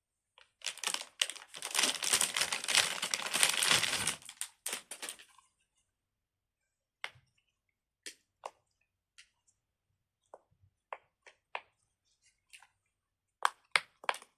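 Fidget toys being handled: loud plastic crinkling and rustling for about three seconds, then scattered sharp clicks and taps, a few of them close together near the end.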